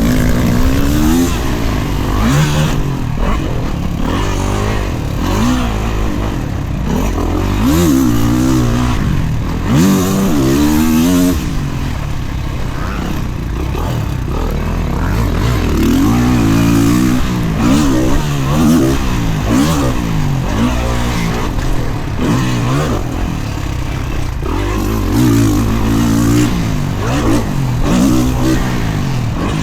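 Dirt bike engine being ridden hard around a motocross track: the revs climb and drop again and again as the throttle is worked through gears, jumps and corners, over a constant rushing noise.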